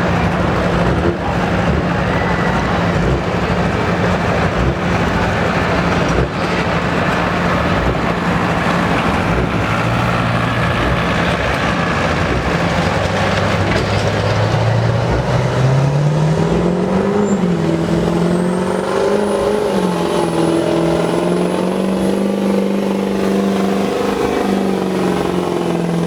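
GMC pickup's Duramax 6.6 turbodiesel V8 working hard under load as it pulls the sled. The engine note holds high, sags for a few seconds around the middle, climbs back up, and winds down near the end.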